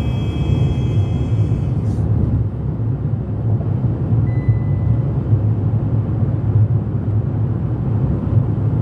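Steady low road and engine rumble inside a moving car's cabin, with faint thin high tones in the first two seconds.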